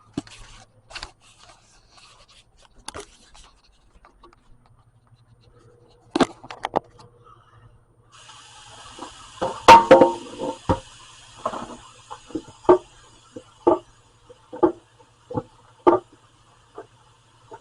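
Dishes being washed by hand: a tap runs for a few seconds while dishes clink and knock against each other, the loudest clatter about ten seconds in, followed by a string of short knocks about once a second.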